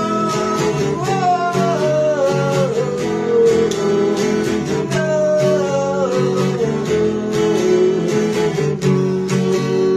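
Instrumental break of a song: strummed acoustic guitar with a melody line that steps downward, twice.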